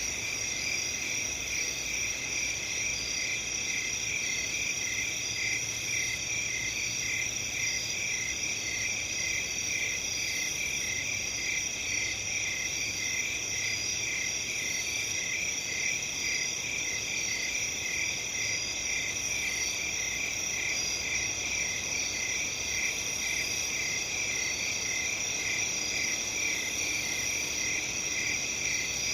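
A dense chorus of crickets chirping continuously, several overlapping high trills, one of them pulsing rapidly, at a steady level.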